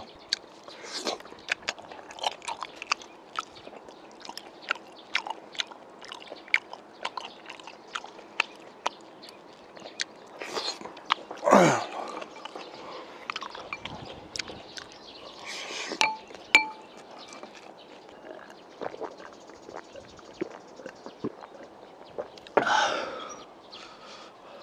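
Close-up chewing, biting and wet mouth clicks of a man eating spicy braised pork ribs off the bone, with a brief falling voice sound about halfway through and another short one near the end.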